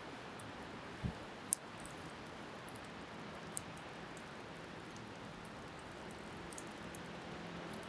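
A seaside campfire crackling, with a few sharp pops over a steady rush of wind and waves. A faint low hum comes in near the end.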